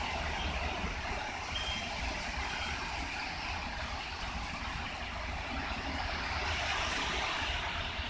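Strong, gusty hurricane wind rushing steadily, with wind buffeting the microphone as a low rumble.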